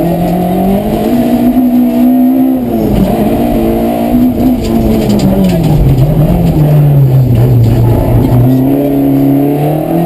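Rally car engine running hard and continuously, its revs rising and falling several times as the car accelerates, lifts and slows, dropping low for a couple of seconds before climbing again near the end.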